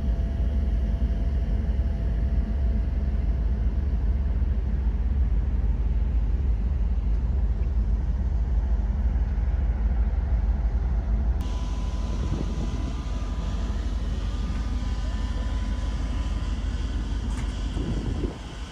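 Steady low rumble of a car ferry's engines. About eleven seconds in, a higher hiss and a faint steady hum abruptly join it.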